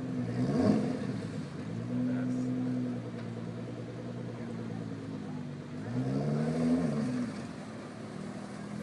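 Car engine running, its pitch rising and falling as it revs up and eases off about six seconds in. A brief loud thump comes under a second in.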